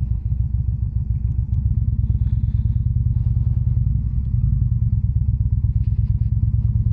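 Indian Springfield's V-twin engine idling with an even, low pulsing beat. A few light clicks sound over it.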